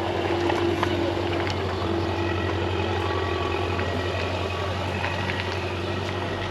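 A vehicle engine running steadily with a low, even hum, over a constant outdoor background with faint scattered clicks.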